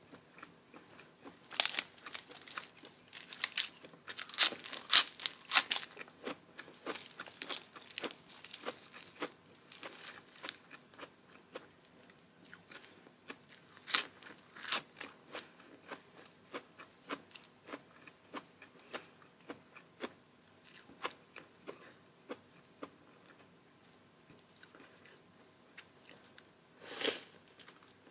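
Close-miked eating: a person biting, crunching and chewing crisp food. The crunches come thick and fast in the first few seconds, then thin out, with one louder, longer burst of crunching noise near the end.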